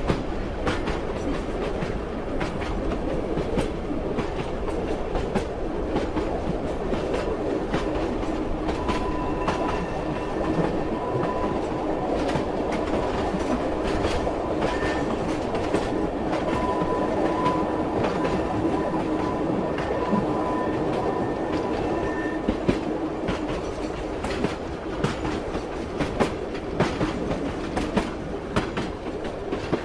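Train wheels clattering over the rail joints with a steady rumble, and irregular sharp clicks throughout. A faint steady whine comes in about a third of the way through and fades out a little past two thirds.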